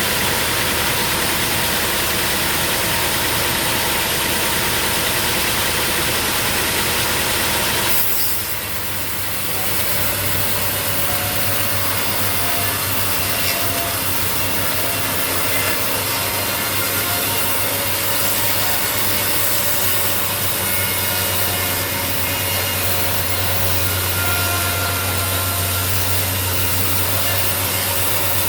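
Sawmill blade cutting through a mahogany log, a steady sawing noise over the hum of the mill's engine. The cut eases briefly about eight seconds in, then carries on with the engine hum heavier.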